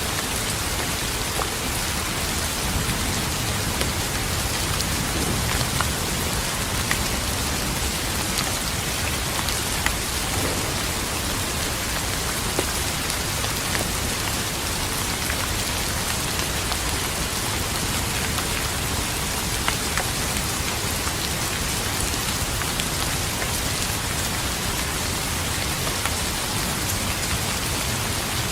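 Steady heavy rain, an even rushing wash with scattered sharp drop ticks.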